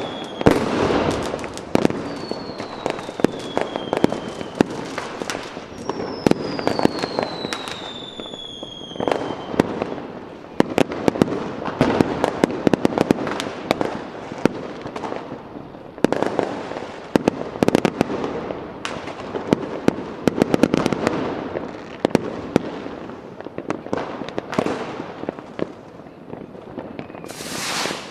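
Fireworks display: a dense run of bangs and crackling, with whistling rockets falling in pitch during the first third and a loud hissing burst near the end.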